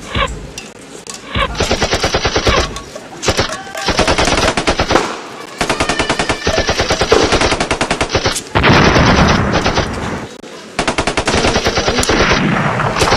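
Machine guns firing blanks in repeated bursts of rapid automatic fire. The bursts are separated by short pauses and run from under a second to about two seconds each, with a couple of single shots right at the start.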